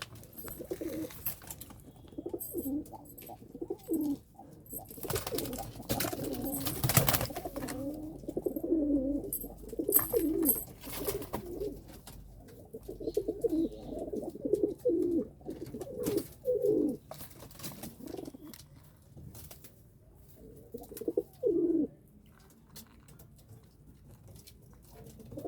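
Domestic pigeons cooing, with repeated low, warbling phrases that come and go and fall quieter towards the end. Several sharp clicks or knocks break in, the loudest about seven seconds in.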